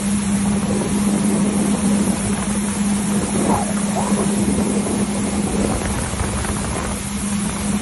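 Jet ski engine running at a steady pitch, a constant hum under a broad rush of wind on the microphone and water.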